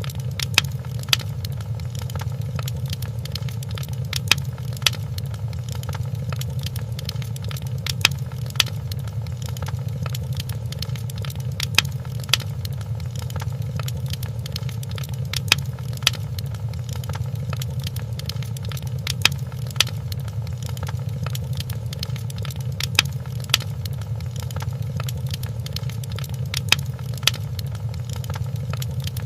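Fireplace ambience: a steady low rumble of burning logs with sharp crackles and pops that come in pairs, the pairs repeating evenly every three to four seconds.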